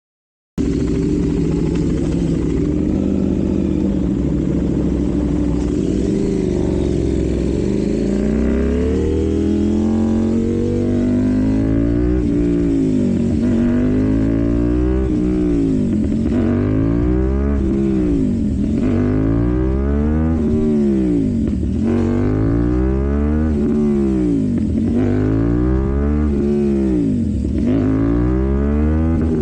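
KTM Duke 790's parallel-twin engine through an Arrow full exhaust system, running steadily at first and then revved up and let back down over and over, about once every two seconds.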